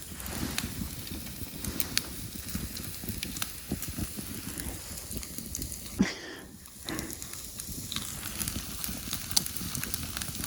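Wood fire crackling, with scattered sharp pops and snaps from the burning logs.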